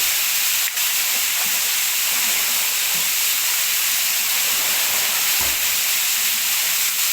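Steady hiss of rushing water from a stream or small waterfall, with a faint knock about a second in.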